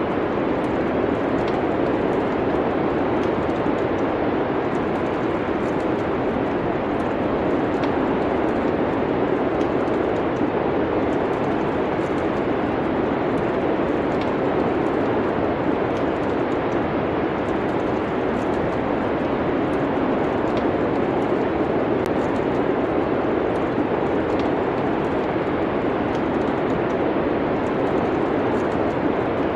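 Wood fire crackling in a fireplace: faint, irregular pops and snaps over a steady, even rushing noise.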